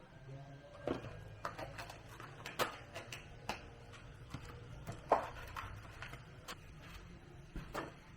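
Irregular light clicks and taps, a dozen or so, the loudest about five seconds in, over a faint low hum.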